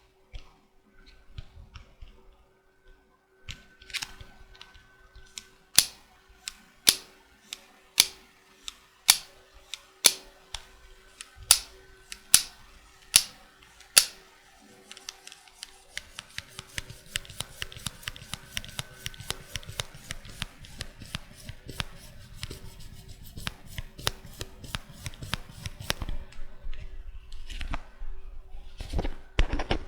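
Floppy disk handled close to the microphone for ASMR: a run of sharp clicks about once a second, then fast, dense tapping and scratching on its plastic case from about halfway through.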